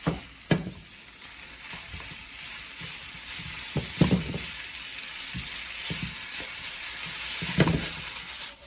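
Noodles, chicken and vegetables sizzling steadily in a hot pan while being stir-fried and tossed, with a few sharp knocks as they are stirred, the loudest about four seconds in.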